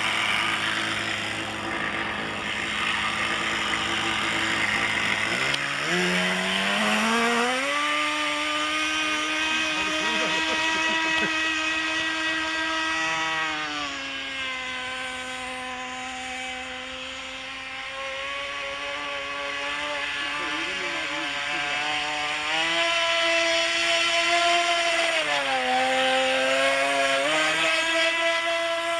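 Glow engine of a radio-controlled model boat running: low at first, then climbing steeply to a high, steady note about six seconds in as the throttle opens. The pitch eases down twice and picks back up, following the throttle.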